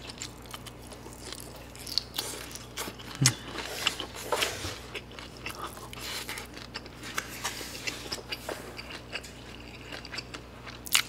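A person biting and chewing mouthfuls of fried pork cutlet, with irregular small crunches and mouth clicks.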